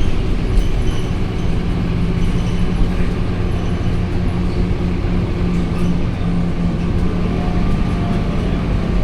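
Scania K230UB city bus under way, its diesel engine giving a steady low drone with a few light rattles and clicks.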